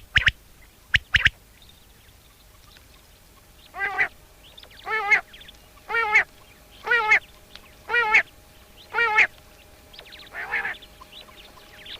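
Common quail song: one 'wet-my-lips' phrase of three sharp notes, a single note then a quick pair, at the start. From about four seconds in, a nasal, duck-like call repeats six times about once a second, with a fainter one near the end.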